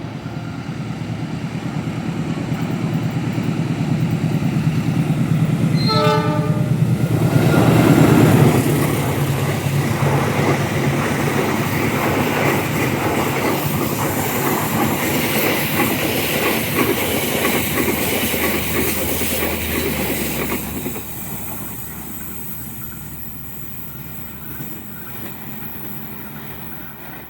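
A passenger train passing close by: a short horn blast about six seconds in, then the locomotive and carriages rattling over the rail joints, loudest just after the horn, with the noise dropping off about three-quarters of the way through.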